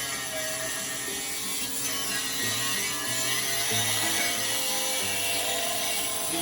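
Angle grinder working on steel, a steady gritty hiss with a faint motor whine, under low stepped notes of background music.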